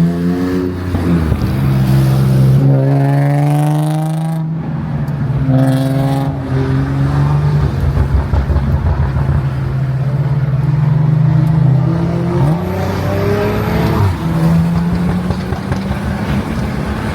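BMW M340i's turbocharged inline-six heard from inside the cabin, accelerating hard through the gears. The engine pitch climbs and drops at each upshift, holds steady for several seconds, then climbs again to one more shift near the end.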